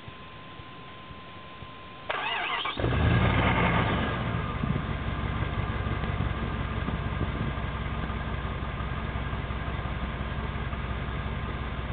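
1994 Jeep Grand Cherokee's 5.2-litre (318) V8 cranked by the starter about two seconds in, catching a moment later with a brief flare of revs, then settling into a steady idle. It is unusually loud: the exhaust has a Flowmaster Super 40 muffler with virtually no tailpipe, which broke off.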